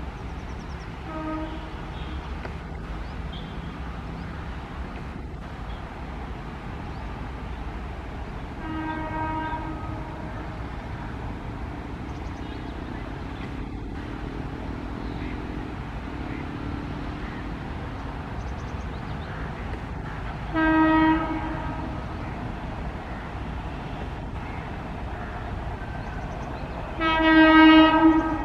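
Indian Railways locomotive horn sounding repeated blasts as an express approaches the station without stopping. The blasts grow louder: a faint short one about a second in, one around nine seconds, a loud short one around twenty-one seconds, and loud back-to-back blasts near the end, over a steady low rumble.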